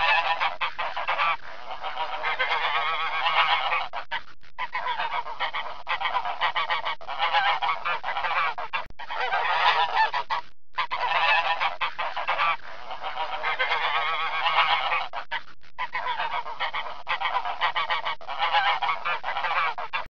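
Swans honking, many calls overlapping into a continuous chorus, broken by a few short gaps.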